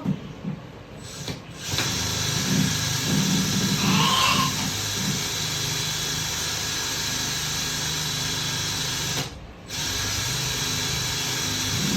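Electric power drill boring into a wall, running steadily from about a second and a half in, stopping briefly near the end and starting again.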